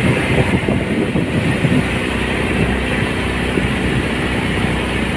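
A boat's engine running steadily while under way, with the rush of wind and water around it.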